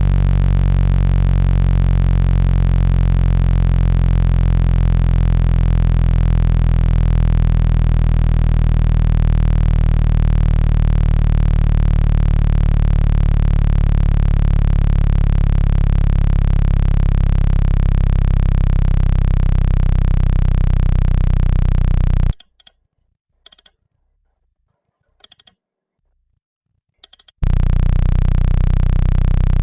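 Synthesized low tone for ejecting water from a phone speaker, billed as 165 Hz, steady with many overtones. It cuts out about three quarters of the way through, leaving some five seconds of near silence broken by a few short clicks, then comes back.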